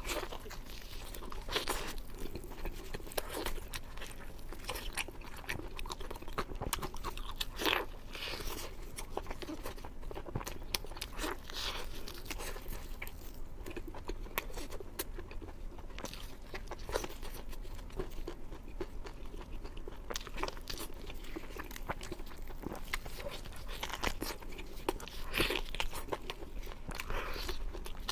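A person eating beef ribs close to the microphone: irregular crunching bites and chewing, with a few louder crisp bites now and then.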